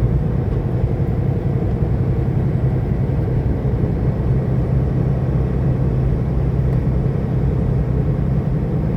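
Semi-truck's diesel engine and road noise heard from inside the cab while cruising on the highway: a steady low drone that holds even throughout.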